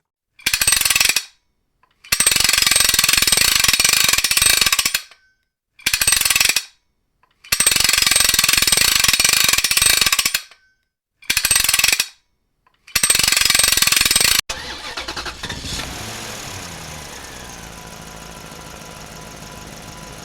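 Cartoon sound effects: a hammer drill runs in on-off bursts, some short and some a few seconds long, with clean silences between them. About fourteen seconds in, it cuts to a steady engine running, its pitch sinking a little and then settling.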